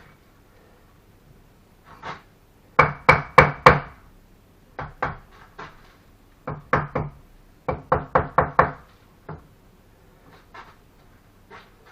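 Sharp knocks in quick runs of three to five, the loudest run about three seconds in. This is a brick being tapped down to bed it in mortar during fireplace masonry.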